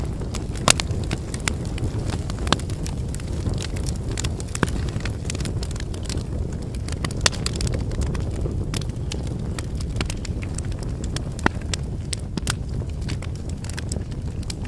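Wood campfire burning: a steady low rumble of flames with irregular sharp crackles and pops from the burning logs, a few standing out louder.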